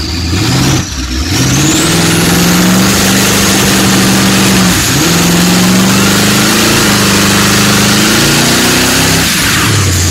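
Twin-turbo big-block Mopar V8 pulling hard, its pitch climbing and then falling back sharply at each gear change, about four seconds apart. A high whistle rises with the revs as the turbos spool. It settles to a steadier, lower note at the very end.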